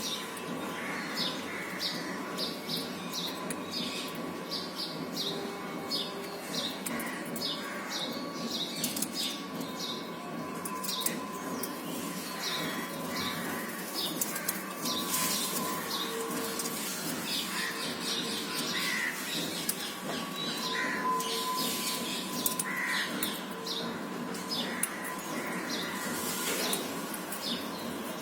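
Parakeets chirping: a rapid, steady string of short high chirps, several a second, with lower, harsher calls breaking in every few seconds.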